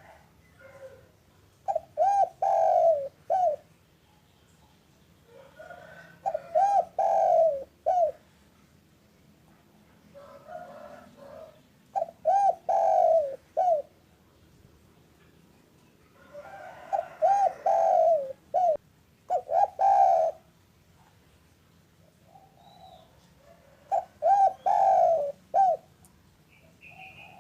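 A spotted dove (Javanese derkuku) cooing: five phrases, each a quick run of several low coos, repeated about every five seconds.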